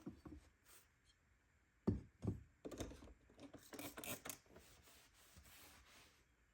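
Light household handling sounds: a couple of soft knocks about two seconds in, then a second or so of light clattering and rubbing as objects are moved about.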